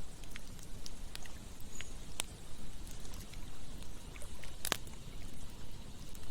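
Campfire crackling, with scattered sharp pops and one loud snap about three-quarters of the way in, over a steady rush of flowing water.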